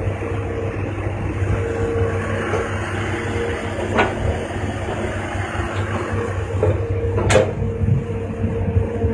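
Hitachi hydraulic excavator running steadily with a constant whine over the engine rumble. Two sharp metallic knocks come about four and seven seconds in, the second the louder.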